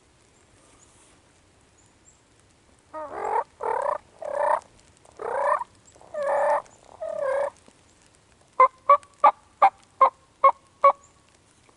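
Turkey calling: six drawn-out yelping notes, then, after a short pause, seven quick, sharp, evenly spaced notes.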